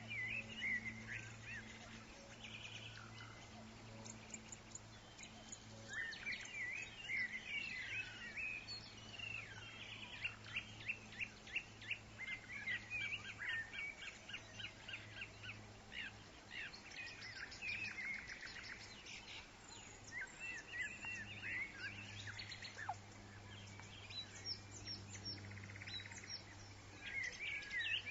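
Woodland songbirds chirping and trilling, several calls overlapping with rapid runs of notes, over a faint hiss of wind in trees and a low steady hum.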